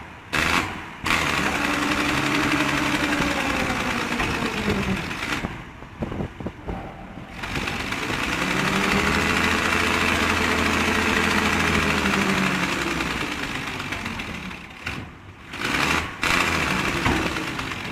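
An engine running, rising and then falling in pitch twice, with sudden breaks between the passages.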